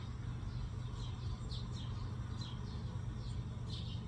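A bird chirping over and over, short high downward chirps at irregular intervals, over a steady low hum.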